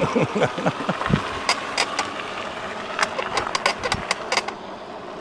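Jansno X50 electric bike being ridden: a steady mix of road and motor noise with many scattered clicks and rattles.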